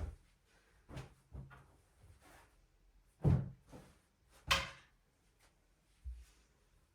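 Knocks and thuds of objects being handled while a room is tidied, about five separate bumps with quiet between them; the two loudest come a little past the middle.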